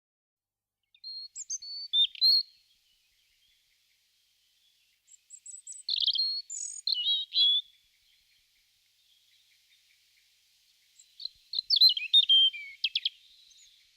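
A small songbird singing three short, high-pitched phrases of quick chirping notes, separated by pauses of a few seconds.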